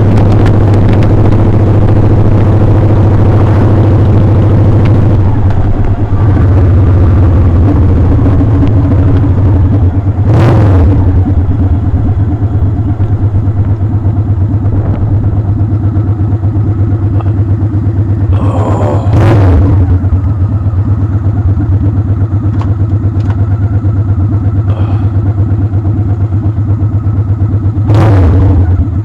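Motorcycle engine running steadily while riding, loud and close. Three brief louder surges come through, at about ten, nineteen and twenty-eight seconds in.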